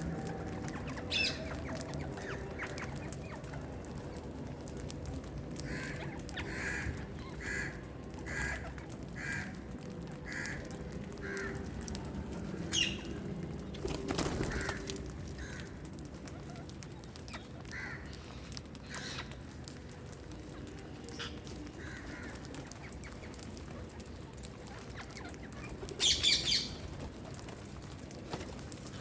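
Wild green parakeets calling: a run of about seven evenly spaced calls through the middle, a few sharp screeches between, and the loudest burst of shrill calls near the end.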